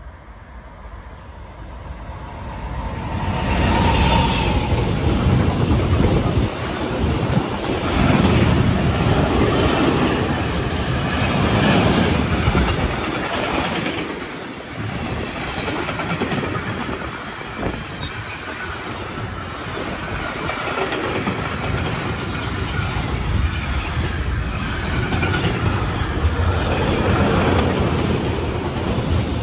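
Freight train passing close by: the locomotive's approach builds up over the first few seconds, then a long string of tank wagons and open wagons rolls past with a steady rumble and repeated wheel clatter on the rails.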